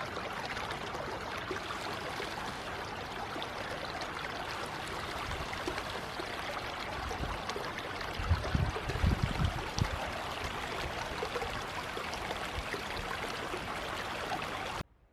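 River water running past in a steady rush. About halfway through come several seconds of loud low rumbling bumps, the loudest sound here. The sound cuts off suddenly just before the end.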